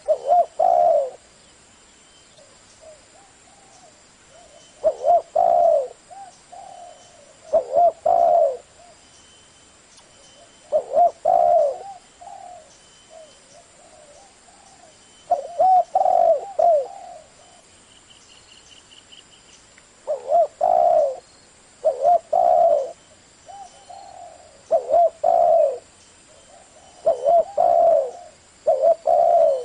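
Spotted dove cooing in the deep 'thổ' voice used as a lure call: short phrases of two or three coos repeated every few seconds.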